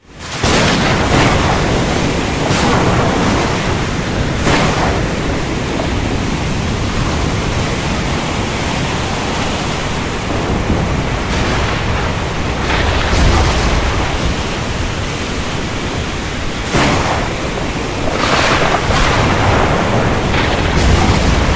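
Heavy rain pouring down in a thunderstorm: a loud, steady rushing hiss that fades in at the start, with several brief louder surges.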